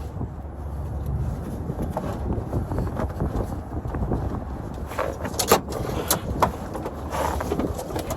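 Wind buffeting the microphone in a steady low rumble, with a few short sharp knocks from about five seconds in, the loudest about halfway through.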